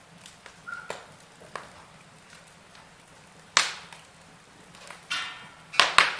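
Wood fire crackling: scattered sharp pops, a loud one about halfway through and two more close together near the end, just after a brief hissing sputter.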